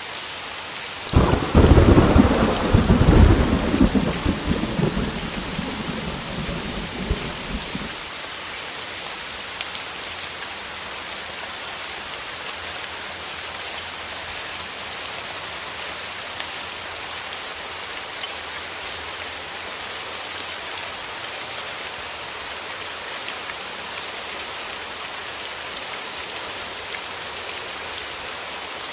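Heavy rain beating steadily on a window. About a second in a clap of thunder breaks loud and rumbles, dying away over the next several seconds.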